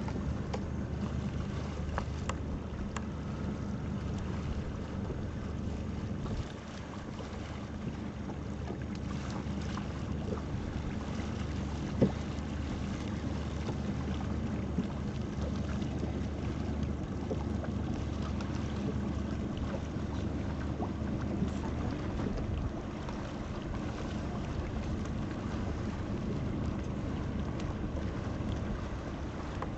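Wind buffeting the microphone and water rushing past the hull of a sailboat under way, steady throughout, with a few light clicks and one sharp knock about twelve seconds in.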